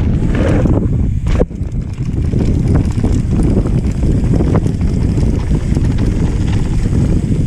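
Wind buffeting the microphone of a camera riding on a mountain bike moving along a dirt trail, with scattered clicks and rattles from the bike and a sharper knock about one and a half seconds in.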